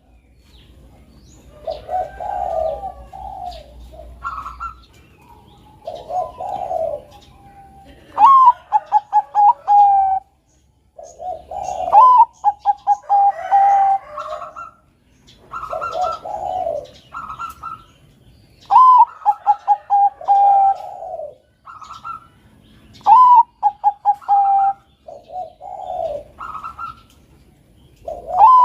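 Zebra dove (perkutut bangkok) cooing in repeated phrases: a rising note, a quick run of short staccato notes and a long held coo, with lower, rougher coos between the phrases.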